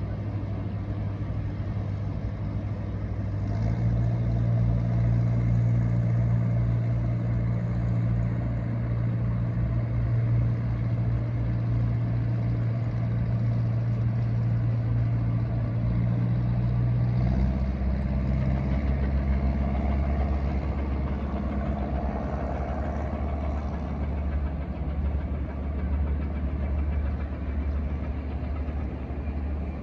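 A low engine running steadily, its pitch stepping up about three or four seconds in and shifting down to a deeper hum around seventeen seconds.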